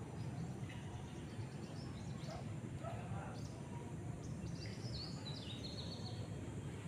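Birds chirping and calling in short notes, several falling in pitch, busiest about five seconds in, over a steady low background rumble.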